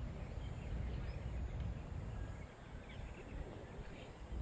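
Outdoor background noise: a steady low rumble with faint, scattered short chirps above it.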